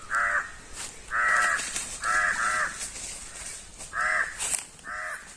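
Crows cawing about six times in short harsh calls, two of them back to back near the middle. The crows are mobbing a bird of prey that has just been released.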